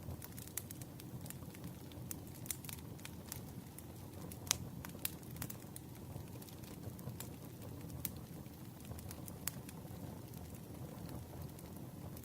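Campfire burning: a steady low rumble of flames with irregular sharp crackles and pops, the loudest pop about four and a half seconds in.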